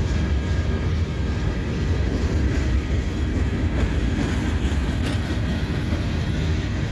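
Freight train cars rolling past at close range: a steady low rumble of steel wheels on the rails.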